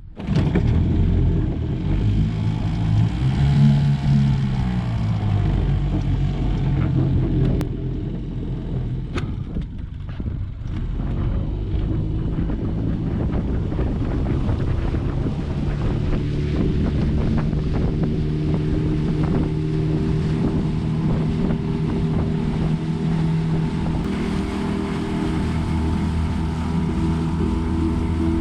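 Boat motor running with the boat under way, its pitch rising and falling briefly a few seconds in, then holding steady. Wind buffets the microphone.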